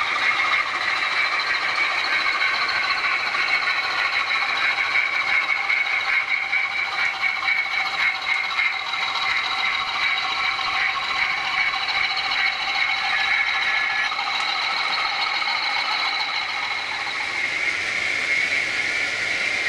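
Model trains running on a model railway layout: a steady high-pitched whine with a fast, fine clicking from the running gear.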